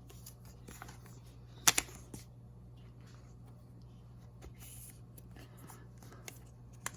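Pokémon trading cards being handled: soft rustling and sliding of cards, with a sharp double click about two seconds in and another click near the end.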